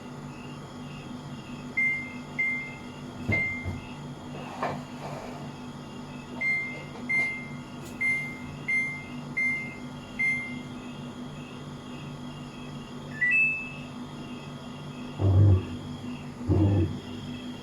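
Electronic control-panel beeps of a Samsung washing machine as its buttons are pressed: short single beeps at one pitch, three and then six in a row, followed by a rising two-note tone. Two low thumps come near the end, over a steady low hum and chirping crickets.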